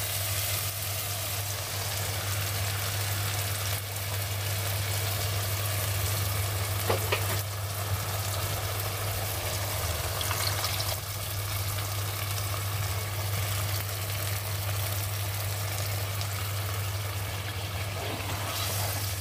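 Tomato masala frying in a pan, a steady sizzle as ground spinach puree is poured into it, with a steady low hum underneath and a couple of light clicks.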